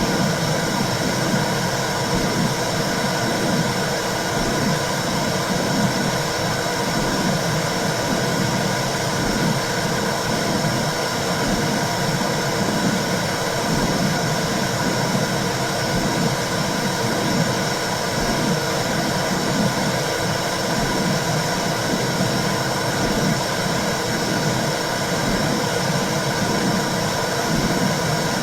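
Womb sound for calming a baby: a loud, steady whooshing noise with a regular low pulsing beneath it, like blood flow and heartbeat heard from inside the womb.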